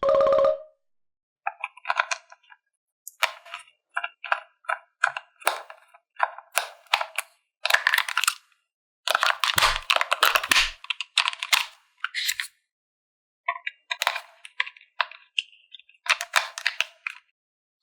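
Plastic toy parts and packaging being handled: rapid clicks, taps and crackles in short clusters, with silent gaps between them. A brief rising tone and a short steady note sound at the very start.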